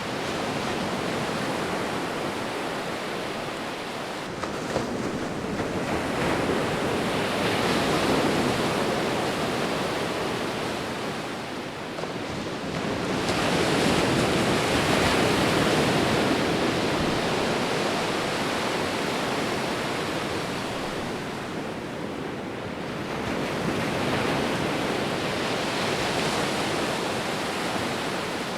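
Sea waves breaking and washing on a shore, a continuous rush of surf that swells and eases in slow surges about every eight to ten seconds.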